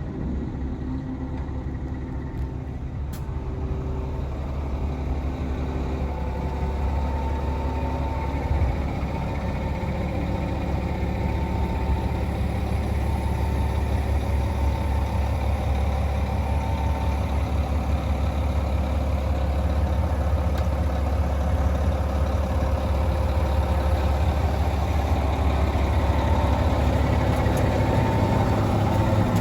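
Six-cylinder Volvo diesel engine of a Volvo A25F articulated hauler idling steadily, slowly growing louder.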